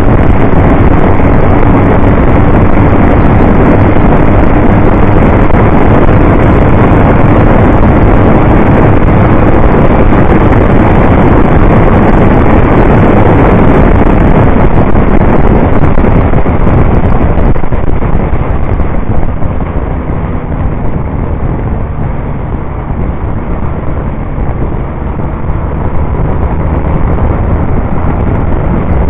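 Norton Commando 850 parallel-twin engine running hard at racing speed, heard from an onboard mount with heavy wind noise on the microphone. About two-thirds of the way through it gets quieter as the bike eases off into a bend.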